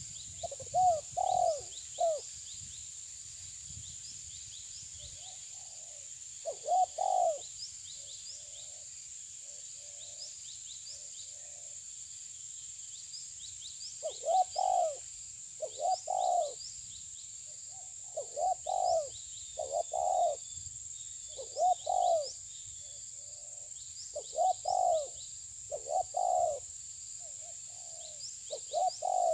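Dove cooing in repeated phrases of two to four low notes every few seconds. Faint high chirps of small birds and a steady high-pitched whine run underneath.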